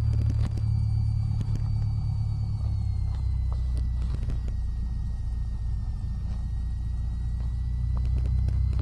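Cessna 172's piston engine and propeller droning steadily in the cockpit, the pitch sagging a little in the middle and rising again near the end, with light rattles.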